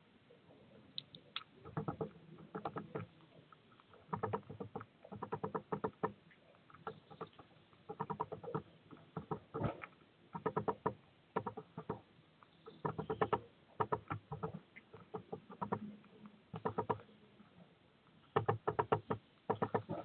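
A bird at a feeder tapping and pecking, in quick runs of small sharp taps that come every second or two.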